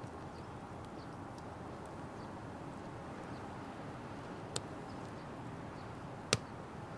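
Firewood burning in a Petromax Atago fire pit: a steady low rush of flame with faint crackles, and two sharp pops, the louder one near the end.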